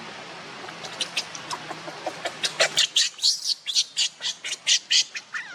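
An animal giving a rapid series of short, high-pitched calls, starting about a second in and growing louder and quicker, roughly four calls a second, over a steady hiss.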